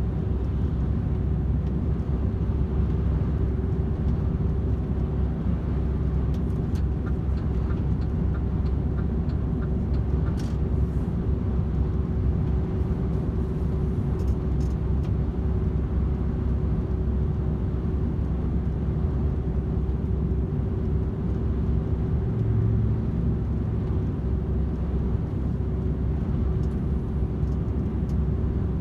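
DAF XF 510 truck cruising at steady speed: an even diesel drone and road rumble with a steady hum over it.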